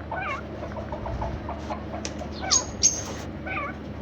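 Overlapping short animal and bird calls, with two loud high-pitched calls close together about two and a half seconds in.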